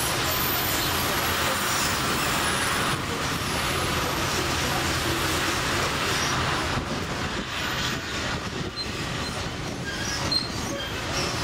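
Narrow-gauge tourist train running along the track, a steady noise of wheels on the rails heard from an open-sided carriage. The noise eases and becomes more uneven after about six and a half seconds.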